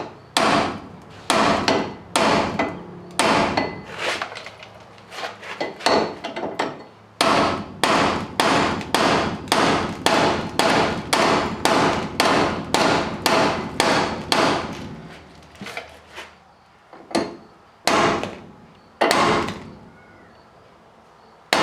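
Hammer blows driving new bushings into a truck door's hinges: sharp ringing strikes, about two a second through the middle stretch, slower and more spaced out at the start and near the end.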